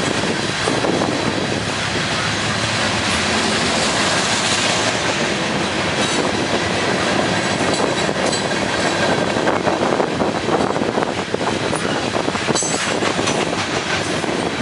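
Freight train cars rolling past close by, steel wheels clattering over the rail joints, with thin high wheel squeal now and then, most noticeable near the end.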